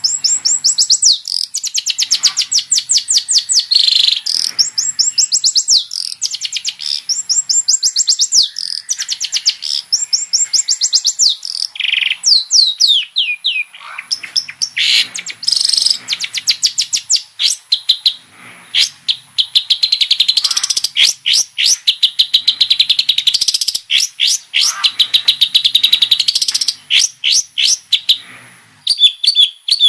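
Long-tailed shrike (cendet) singing loudly in long runs of rapid, high chirps and trills, phrase after phrase with short breaks, the varied song of a bird in full voice with its mimicked repertoire.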